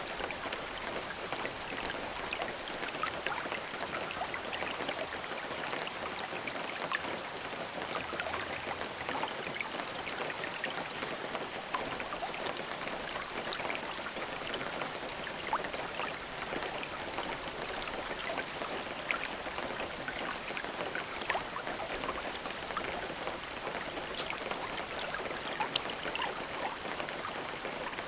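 Steady rain falling, an even hiss dotted with the small ticks of single drops striking a surface.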